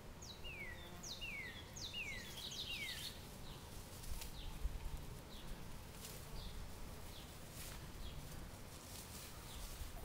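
A bird calling: a run of about four quick downward-sliding chirps in the first three seconds, then scattered faint short chirps, over a low, steady outdoor background with a few faint clicks.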